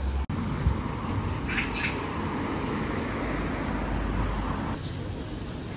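Street ambience with a bird giving two short, harsh squawks close together about one and a half seconds in, over a steady background hum of traffic.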